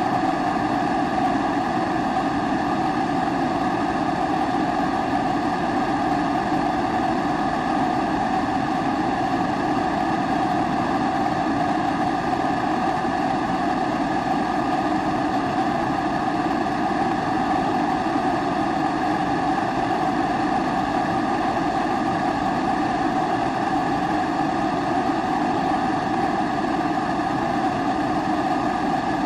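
Pressurised kerosene (Primus-type) stove burner running with a steady, unchanging rushing sound.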